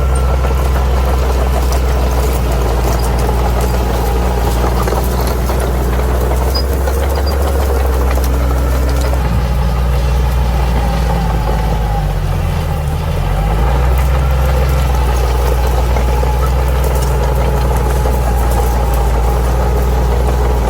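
Bulldozer's diesel engine running steadily at a loud, low pitch. About two-thirds of the way through, its pitch dips for about a second and then comes back up.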